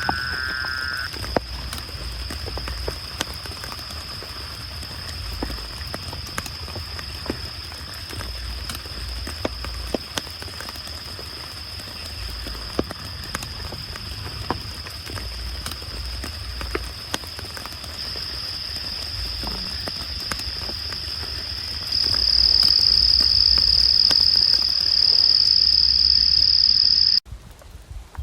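A steady, high-pitched chorus of calling animals in the wet night, with scattered drips of rain. The chorus grows louder about three quarters of the way in, then cuts off suddenly near the end.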